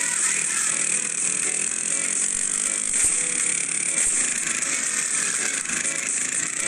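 Steady, harsh mechanical buzzing and rattling, like a small engine or power tool running without a break.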